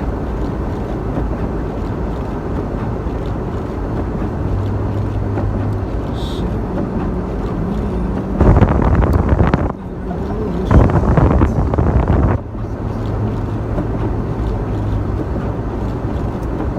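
Steady engine and road noise from a 1996 Ford Bronco 4x4 driving in snow. Two louder bursts of noise, each a second or so long, come about eight and eleven seconds in.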